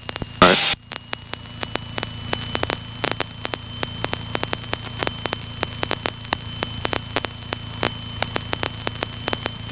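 Crackling static on a light aircraft's intercom: irregular sharp clicks, several a second, over the steady low hum of the Piper PA-28's engine, with a brief louder burst about half a second in. The static is interference on the passenger microphone line, heavier at higher engine RPM.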